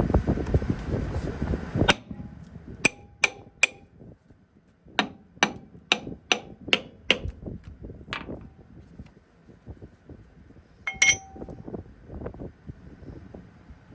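Hand hammer striking steel with a ringing clink: three blows, then a quicker run of about eight at roughly three a second, then two more near the end. A louder steady noise stops abruptly about two seconds in.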